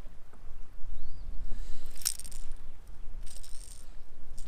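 Short bursts of jangly rattling from a square-bill crankbait's internal rattles and treble hooks as a freshly landed bass shakes, with a sharp click about two seconds in, over a low rumble.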